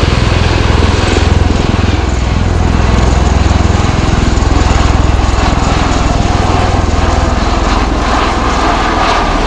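Bell-Boeing CV-22B Osprey tiltrotor in flight: loud, continuous rotor and turboshaft engine noise with a rapid low beat from the big three-bladed proprotors, easing a little near the end.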